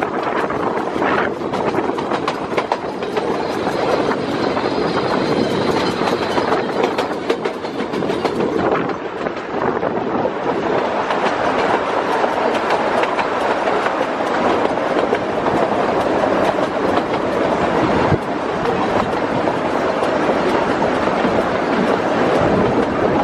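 Puffing Billy narrow-gauge steam train running along the line: a steady rumble with the wheels clattering over the rail joints.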